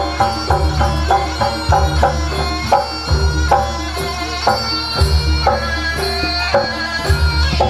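Instrumental Javanese traditional band music, with a hand-drum rhythm under quick repeated struck pitched notes and a steady low bass. There is no singing.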